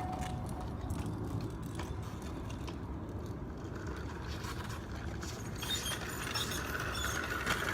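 Small electric dirt bike being ridden: light mechanical clicking and rattling over a low rumble, with no engine note.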